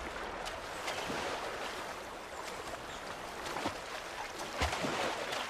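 Running river water, a steady rushing wash with scattered small clicks and splashes.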